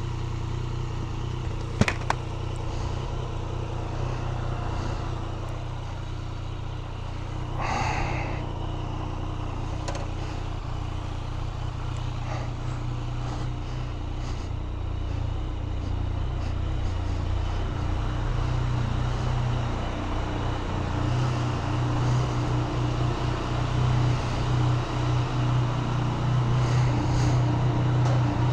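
Yamaha FZ-09's three-cylinder engine running steadily at low revs, growing louder over the last third. There are two sharp clicks about two seconds in.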